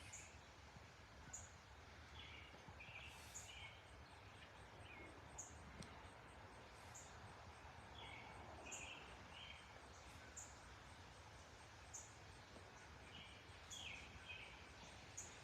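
Faint birds chirping: a short high chirp repeating about every second and a half, with three brief runs of lower chirps, over a low, even background rumble.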